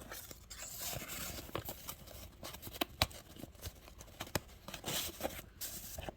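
Old paper letters and envelopes rustling and crinkling as they are handled, with a few light taps.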